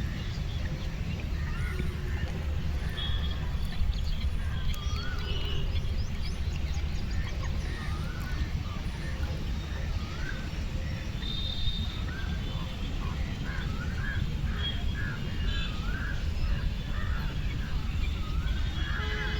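Many birds chirping and calling in short, curving notes, thickest near the end, over a steady low rumble.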